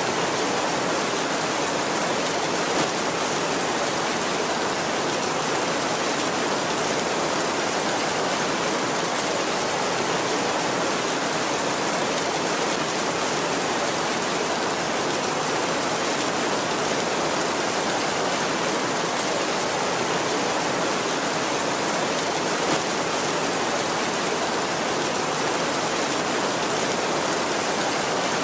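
Heavy rain falling steadily on a tin roof, a dense, even patter with no thunder.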